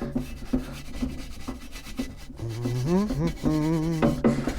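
Bristle nail brush scrubbing a Lambretta TS1 aluminium engine case in quick back-and-forth strokes to shift grime. About halfway through a man starts singing a short tune over the scrubbing.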